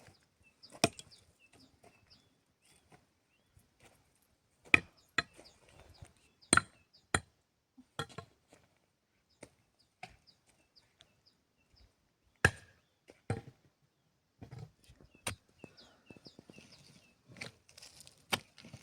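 Irregular sharp knocks, about ten of them with short quiet gaps between, the loudest about five seconds in, around six and a half seconds in and about twelve and a half seconds in.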